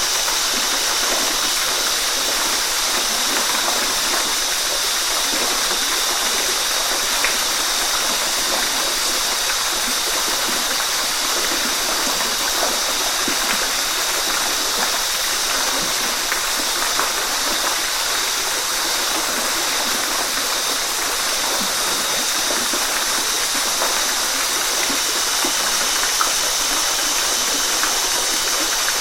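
Waterfall: a steady rush of falling water that keeps an even level throughout.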